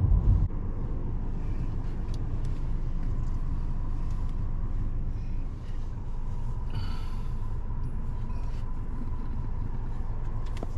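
Car driving along the road, heard from inside the cabin: a steady low rumble of engine and tyres with a faint steady whine.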